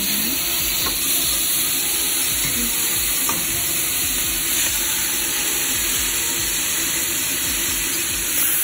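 Seasoned chicken breasts sizzling steadily as they are laid, piece by piece, into hot melted butter in a wide pan.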